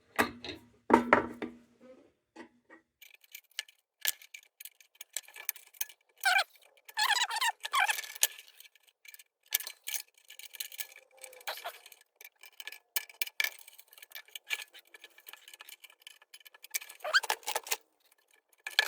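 Small tin and wire lantern parts clicking and clinking against each other as they are fitted onto a lantern by hand, with a few brief squeaks.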